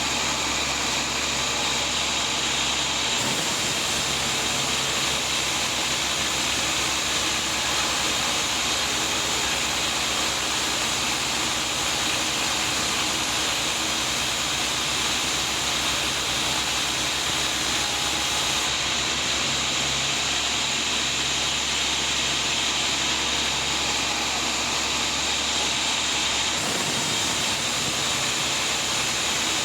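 Sawmill running and sawing a large teak log: a steady, continuous machine-and-blade noise. The low part of the sound shifts about three seconds in and again near the end.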